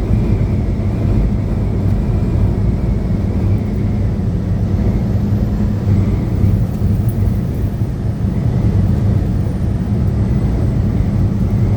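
Steady engine drone and road noise inside the cab of a moving semi truck, with a low, even hum.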